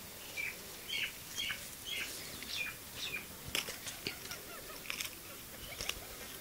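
A small bird chirping: a short high note repeated about twice a second, which stops about halfway through. A few faint clicks follow.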